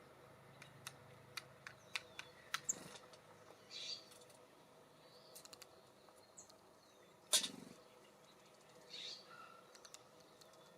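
Birds at a seed and suet feeder: a string of sharp taps and pecks in the first few seconds, one louder knock about seven seconds in, and two short rasping bursts with a few faint high chirps.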